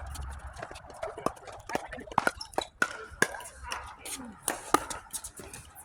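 Pickleball rally: paddles striking the hollow plastic ball in sharp pops at irregular intervals, with ball bounces and shoe scuffs on the court, over faint background voices.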